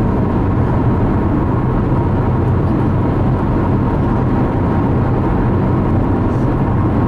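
Steady road and engine noise inside a car cabin at freeway speed: a low, even drone of tyres and engine with a faint steady whine.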